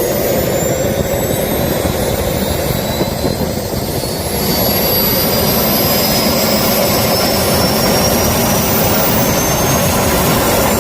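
Small jet engine spooling up on a test start: a loud roar with a high whine that rises steadily in pitch, the sound growing louder about four seconds in.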